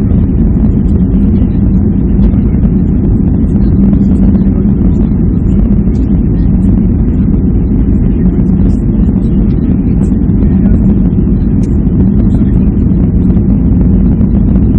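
Jet airliner cabin noise: a steady, loud rumble of the engines and airflow heard from inside the passenger cabin, with an even low hum and no change in pitch.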